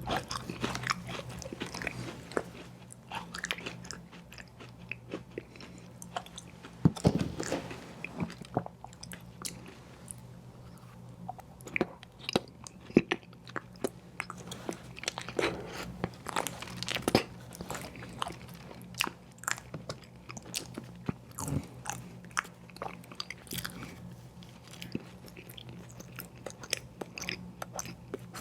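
Close-miked eating of ice cream sandwiches: biting and wet chewing with irregular crunches and mouth clicks, a few bites louder than the rest. A steady low hum runs underneath.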